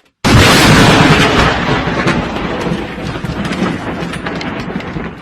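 Thunderclap from a close lightning strike: a sudden very loud crack about a quarter second in, then a noisy decay that fades slowly over several seconds with scattered crackles.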